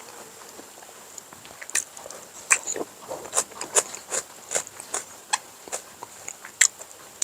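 Close-up chewing with mouth smacking: a string of short wet clicks, about two or three a second, starting a couple of seconds in.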